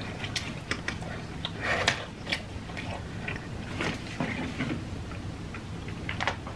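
Close-miked chewing of a mouthful of food, with irregular wet mouth clicks and smacks.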